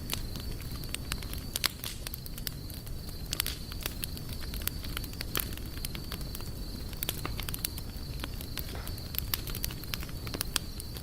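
Outdoor campfire burning, with irregular sharp pops and crackles of burning wood over a low steady rumble. A thin, steady high-pitched tone sits underneath.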